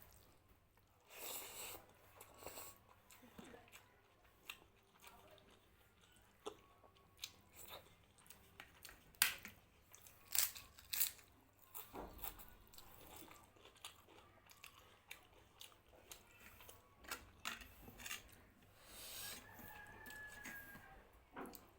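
Close-up eating sounds: a person chewing and biting food with mouth smacks and an occasional crunch, in irregular short clicks.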